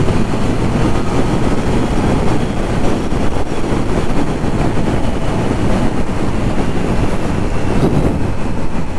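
Steady rush of wind and engine and road noise from a Triumph Trident 660 being ridden at cruising speed, the inline three-cylinder engine running under a constant throttle.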